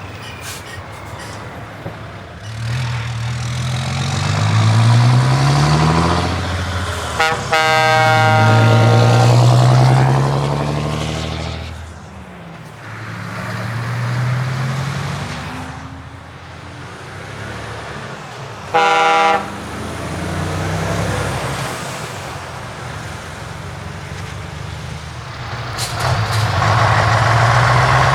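Trucks with open exhaust pipes driving past one after another, their diesel engines revving up and easing off several times. A truck horn sounds briefly about seven seconds in and again about nineteen seconds in.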